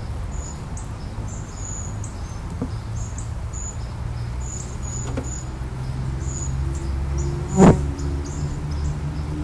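Honeybees buzzing as a steady low hum around an open top bar hive during an inspection, with short high chirps repeating over it. A sharp knock about three quarters of the way through.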